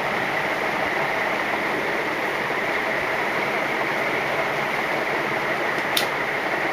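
1983 Canarm 56-inch ceiling fan's three metal blades beating the air: a loud, steady rush, the fan just switched down from full speed and still winding down slowly toward its second speed. A single short click about six seconds in.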